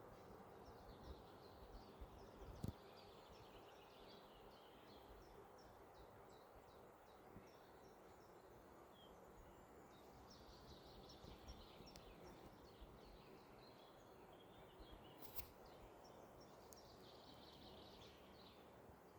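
Faint forest birdsong: runs of short, high chirping notes from small birds, coming and going over a soft background hiss, with a couple of sharp clicks.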